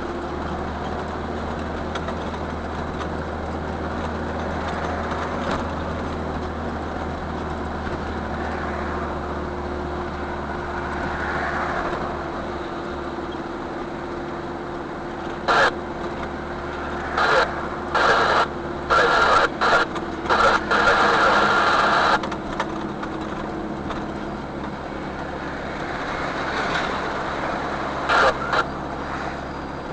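A vehicle running steadily, with a car horn honking in a run of short loud blasts about halfway through and twice more near the end.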